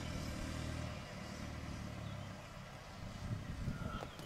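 Game-drive vehicle's engine running with a steady low hum, growing quieter about a second in.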